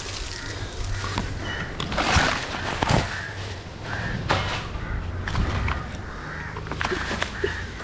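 Irregular knocks and scrapes, with louder thuds about two and three seconds in, over a steady low rumble.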